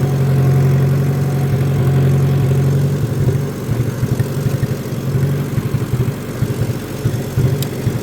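Mowing tractor's engine running steadily; about three seconds in its hum turns rougher and pulsing and drops a little in level. A faint click near the end.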